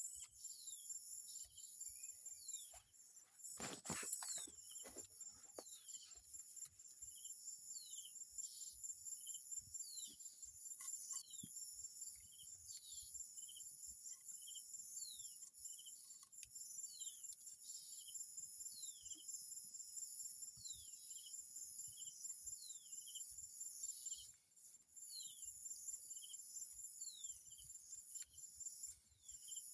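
Crickets and other insects trilling steadily at a high pitch, with a short falling chirp repeating about once a second. There is a brief knock or rustle about four seconds in.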